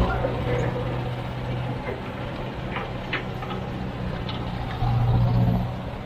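Excavator diesel engine running steadily, swelling louder for about a second near the end, with a couple of faint knocks about three seconds in.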